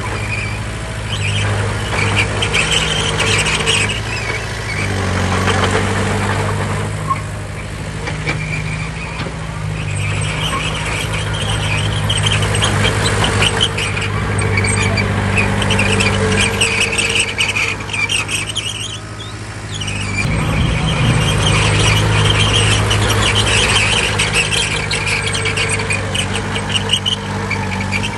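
Crawler bulldozer working: the diesel engine runs under load, eases off briefly about nineteen seconds in, then picks up again. Over it come the squealing and clanking of the steel tracks.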